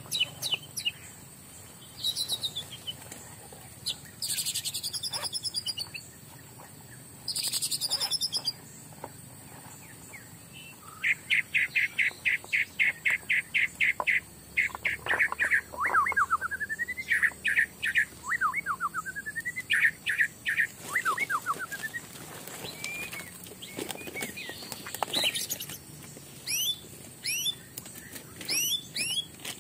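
Several forest birds calling: sharp chirps, a fast even trill, and runs of rising whistled notes, over a faint steady high whine.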